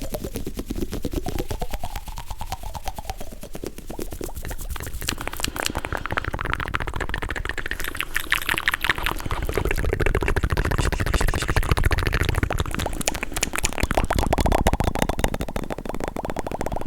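Fast, close-miked ASMR trigger sounds: a dense run of rapid clicks and taps.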